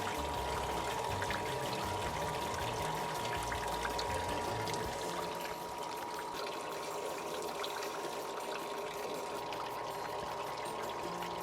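Water pouring and trickling steadily as the descaling system's pump circulates the water and descaler solution through the outboard motor's water jacket, with a steady thin whine throughout.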